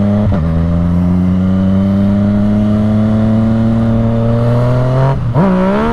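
Yamaha motorcycle engine pulling hard in gear, its revs climbing steadily for about five seconds. Near the end the revs dip and then jump sharply as the rear wheel spins out on the wet road during a wheelie attempt.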